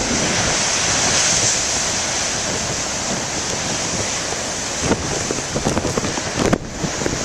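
Heavy ocean surf breaking and rushing against the shore in a continuous roar, loudest in the first couple of seconds. Wind buffets the microphone throughout.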